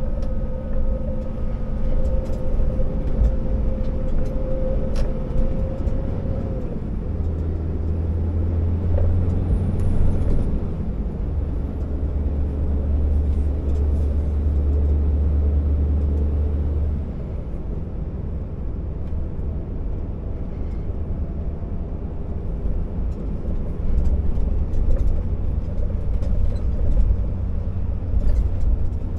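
Scania R650 timber truck's V8 diesel engine running steadily on the road, with a steady whine that stops about six seconds in. The low drone grows heavier for about ten seconds in the middle, then eases back.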